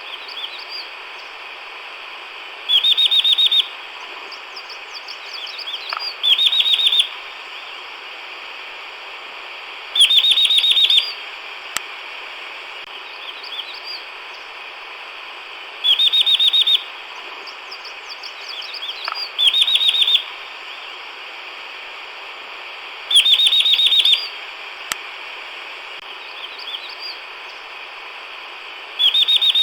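Chestnut-vented nuthatch singing: a fast, even trill of rapidly repeated notes, each trill about a second long, given seven times a few seconds apart. Fainter high chips sound between the trills over a steady background hiss.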